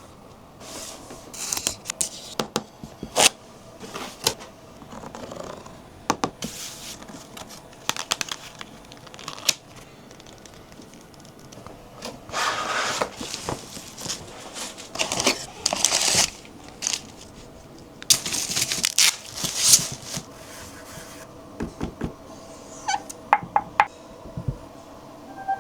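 Speaker packaging being unboxed: cardboard and plastic wrapping handled, with repeated rustling, scraping and tearing swishes and sharp clicks and taps. A few short tones sound near the end.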